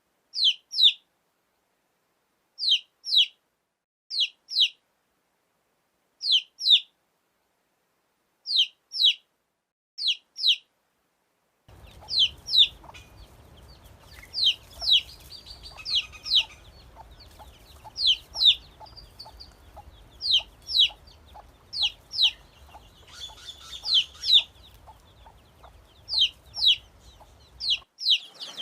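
Baby chicks peeping in quick pairs of short, high chirps, repeating every second or two. Partway through, a faint background noise and soft, low, regular clucking come in beneath the peeps.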